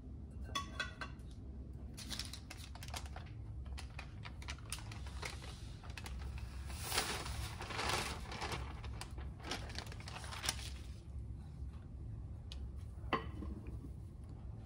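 Parchment paper rustling and crinkling as it is lifted and folded, with sifted almond flour and powdered sugar sliding off it into a ceramic bowl; the paper noise is densest a little past the middle. Scattered light taps and clicks throughout, and a single sharp knock near the end.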